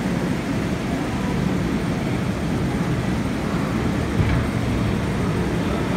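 MTR Tsuen Wan line train moving through the station, giving a steady low rumble of wheels and running gear, with a brief knock about four seconds in.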